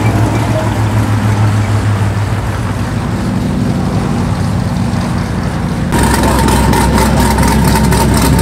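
A car engine running, a steady low drone that turns louder and rougher about six seconds in.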